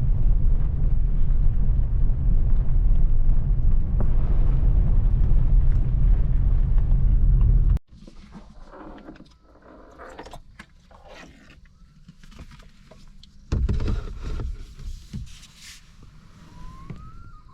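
Car driving, a loud steady low rumble of road and wind noise that cuts off abruptly about eight seconds in. Faint scattered knocks and ticks follow, with another short burst of low rumble a little later.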